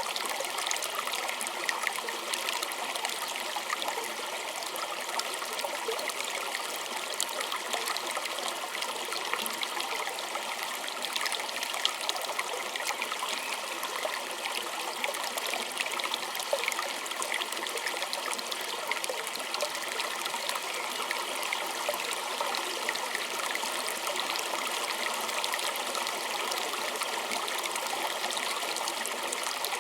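A small stream running and trickling steadily over stones, a close, even babble of splashing water.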